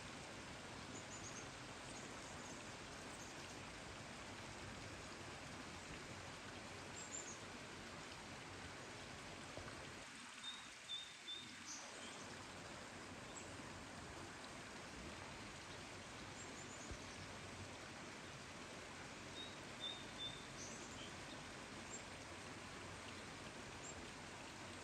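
Steady hiss of rain with short, high bird chirps breaking through several times, some in quick runs of two or three notes.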